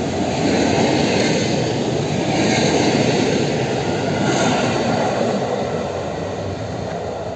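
Passenger train's carriages rolling past at speed: a steady rumble of wheels on rails that starts to fade near the end.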